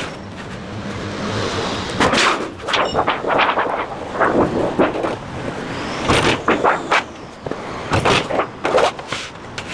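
A run of loud, irregular clanks and bangs from a sheet-metal working machine and the metal sheet on it, over a steady low hum.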